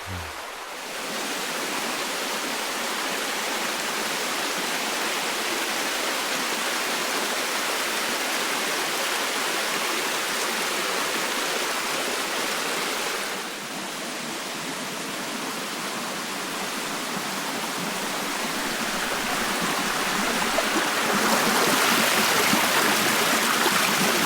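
Mountain creek running over rocks: a steady rush of water. It shifts briefly about halfway through and grows louder near the end.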